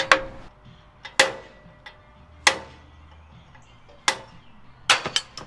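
Sharp metal-on-metal clicks and knocks, a second or so apart with a quick run of three near the end, some ringing briefly: tools working a seized, peened-over steel pin loose on an Eli Bridge Ferris wheel.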